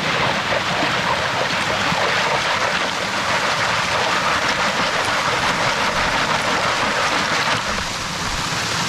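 Steady rush of running, splashing water, as in a stream pool where a gold pan and sieve are being washed.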